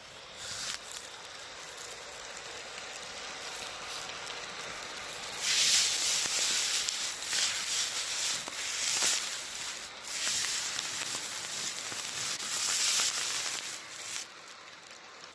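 H0-scale model train rolling along the track, a steady rattling hiss of wheels on rails. It swells sharply about five seconds in, surges several times while it is loudest, and fades near the end as the train passes.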